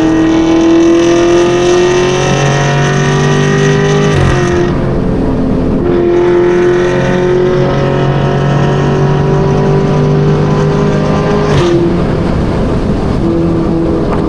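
Chevrolet Camaro ZL1's supercharged V8 pulling under acceleration. Its note climbs, drops at an upshift about four seconds in, climbs slowly again and drops at a second shift near the end, over steady road and wind noise.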